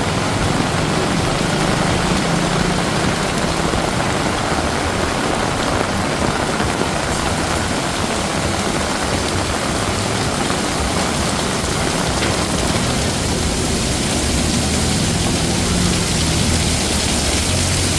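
Heavy rain falling steadily, a dense hiss of drops hitting the ground and surfaces, with the low rumble of city traffic underneath.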